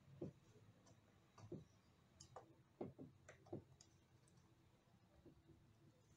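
Faint clicks and light taps from hands peeling and handling the adhesive tape strips on an iMac's display edge, a handful of short ones in the first few seconds with near silence between.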